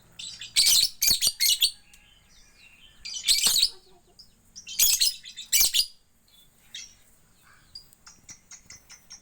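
Young lovebird, about three months old, giving loud, short, piercing calls in clusters, then a quick run of small high chirps near the end, about five a second.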